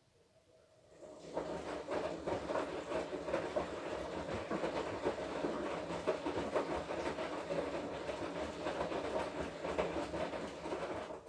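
Washing machine drum turning through a wash cycle, laundry and water sloshing and tumbling with a clattery churn. It starts about a second in, runs for about ten seconds and stops at the end, as the drum pauses between turns.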